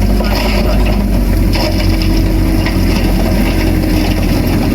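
Komatsu bulldozer's diesel engine running steadily under load, with clanking and scraping of tracks and rock.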